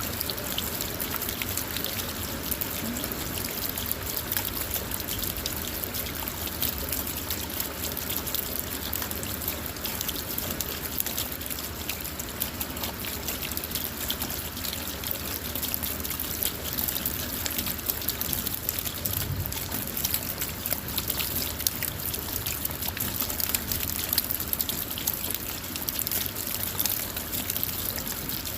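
Steady rain falling on a car, heard from inside the cabin: an even hiss of rain with many small drop ticks on the body and glass, unchanging throughout.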